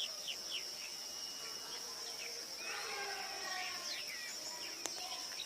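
Outdoor ambience: a steady, high insect drone with many short bird chirps over it, and a single sharp click near the end.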